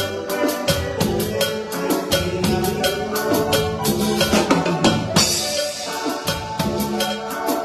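Band music driven by a drum kit playing a quick, steady beat with kick, snare and cymbals, over bass and held keyboard notes.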